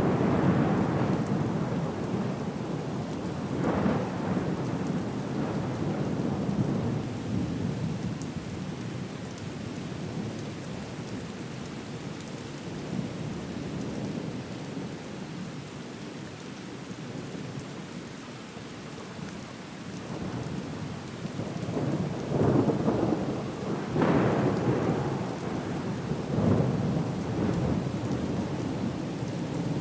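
Thunderstorm soundscape: steady rain under deep rumbling thunder, with swells of rumble at the start, about four seconds in, and several in the last third, and a quieter stretch of rain in between.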